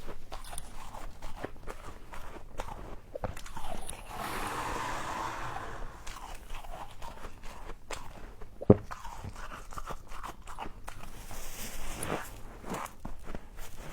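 Close-up crunching and chewing of frost: many small irregular crunches, with a steadier rustling hiss for about two seconds around four to six seconds in and one sharp, loud snap a little under nine seconds in.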